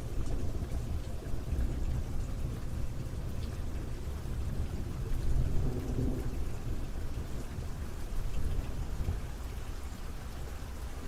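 Steady rain falling, with a low rumble of thunder that swells about halfway through and then fades.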